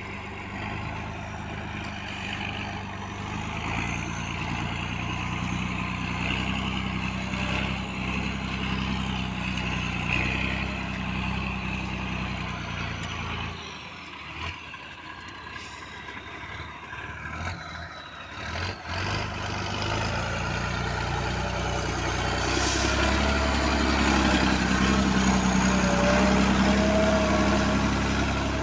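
Belarus MTZ tractor's diesel engine running steadily under load as it puddles a flooded field on iron wheels. It drops away for a few seconds past the middle, then grows louder toward the end.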